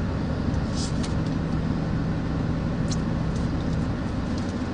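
A steady low hum of a running engine, with a few faint clicks.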